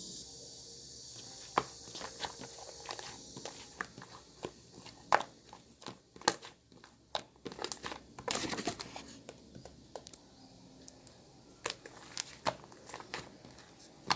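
Irregular crinkling and crackling with many scattered sharp clicks, busiest in a dense cluster about eight and a half seconds in.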